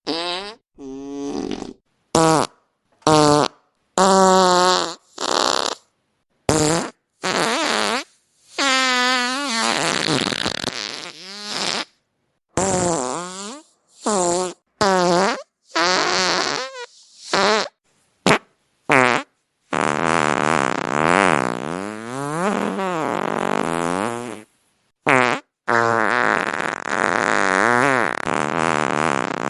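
Fart sound effects played one after another: many short farts with a wavering, bending pitch, separated by brief gaps, then two long drawn-out farts in the second half.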